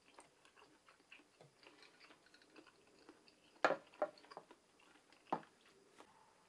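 Soft chewing of a konjac ball, with small wet clicks from the mouth. About three and a half seconds in, a ceramic plate is set down on a wooden table with two sharp clacks, and another single knock follows about a second and a half later.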